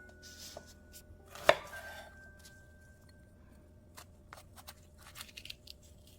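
Kitchen knife chopping on a cutting board: one sharp, loud chop about a second and a half in, then a few lighter taps near the end.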